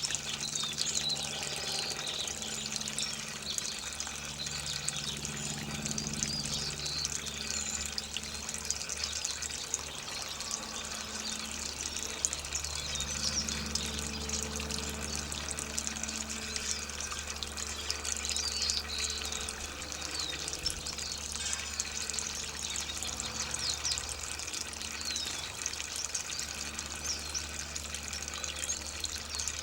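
Water running and splashing steadily as an orange tree is watered, with many small birds chirping over it throughout. A low steady hum sits underneath.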